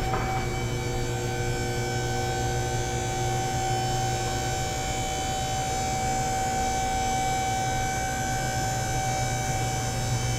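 Electric motor of a vehicle lift's hydraulic pump running steadily: a low hum with a steady whine above it, raising the car.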